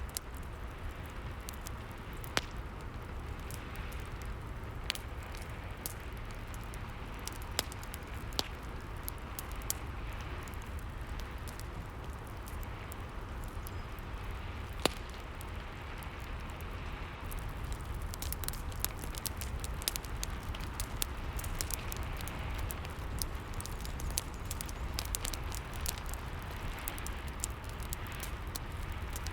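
Rain and fireplace ambience: a steady hiss of rain and a low rumble with sharp, scattered crackles and pops from the fire, which come much more often in the second half.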